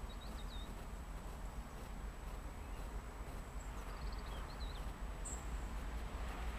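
Small birds chirping in short high-pitched phrases near the start and again about three to four seconds in, over a steady low rumble.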